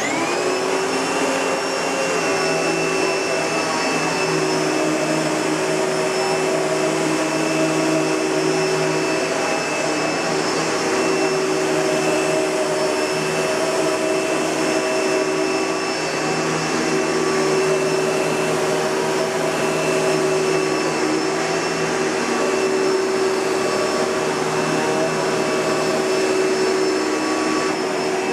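Kenmore Progressive 116.31069110 bagged upright vacuum cleaner, built by Panasonic, running: its motor whine climbs to speed in the first second after switch-on, then runs steadily.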